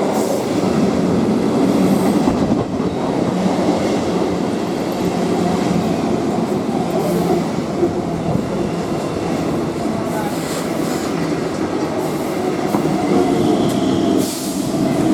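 Electric multiple unit (EMU) local train departing a station: a steady, loud rumble of its wheels and carriages on the rails.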